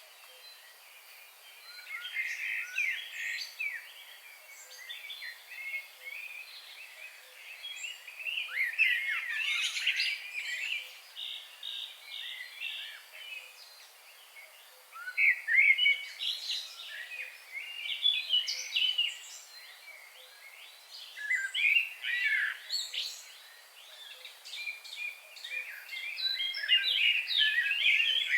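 Wild birds chirping and singing in bouts of quick, twittering phrases, several calls overlapping at once, with short lulls between bouts over a faint steady outdoor hiss.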